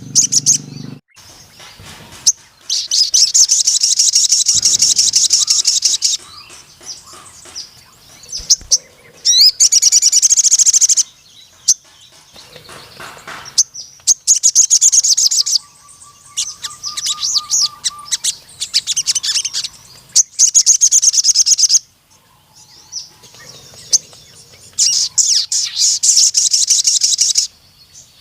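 Sogon (crimson sunbird) singing in full voice: a string of long, very fast, high-pitched trills, each lasting one to three seconds, with short pauses between them.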